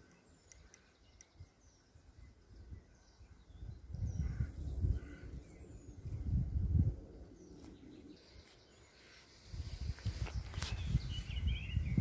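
Small birds chirping in the background, short high calls scattered through the first half, with uneven bursts of low rumble on the microphone, strongest in the middle and the last few seconds.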